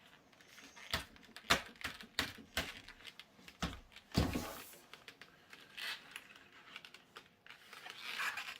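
A furnace filter's cardboard frame being pushed and worked into a tight fit on a box fan: a string of taps, knocks and clicks, with a short scraping rustle about four seconds in and another near the end.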